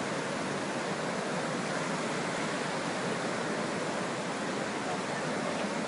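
Fast-flowing floodwater rushing, a steady, unbroken noise.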